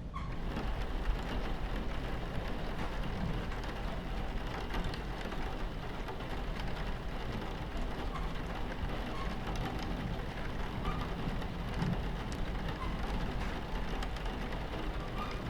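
Steady rain on a train window over the low rumble of the train running along the tracks.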